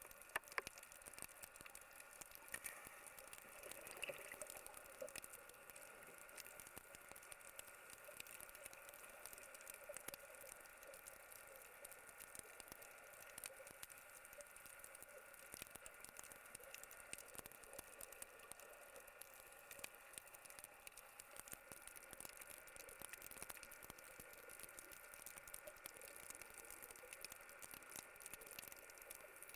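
Faint underwater ambience: a low steady hiss sprinkled with many small, irregular crackling clicks.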